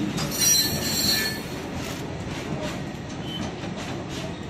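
Indian Railways goods train wagons rolling past, with a high-pitched metallic wheel squeal in the first second or so. After that the wheels click repeatedly over the rail joints under a steady rumble.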